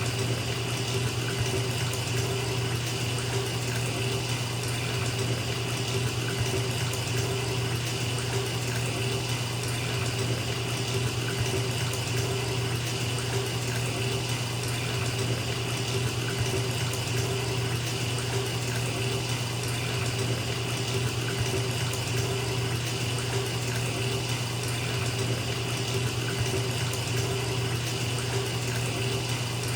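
Bathtub filling from the tap: water pouring steadily into the tub, an even, unbroken rush with a low rumble underneath.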